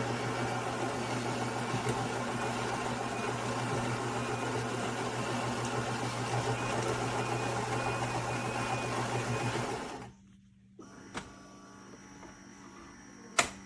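Philips 4300 Series fully automatic espresso machine running a brewing cycle: a steady mechanical buzz for about ten seconds that cuts off suddenly, followed by a quieter hum and a single click near the end.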